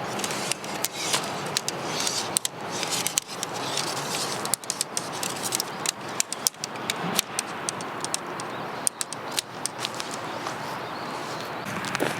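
Steady rain hiss with many irregular clicks and light knocks over it, like camping gear being handled.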